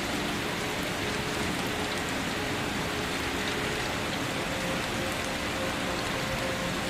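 Steady rain falling, an even patter of drops on a surface, with faint held low tones underneath.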